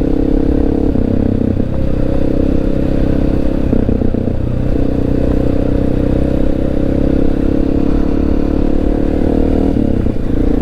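Honda XR650L's single-cylinder four-stroke engine running under way, its note steady but shifting in pitch a few times as the throttle and gears change.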